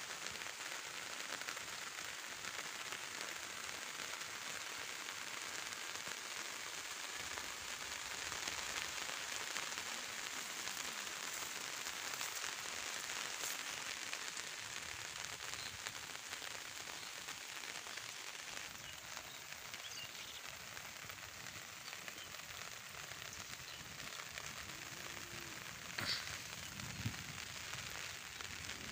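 Steady rain falling on leaves and wet ground, an even crackly hiss. Two brief knocks come near the end.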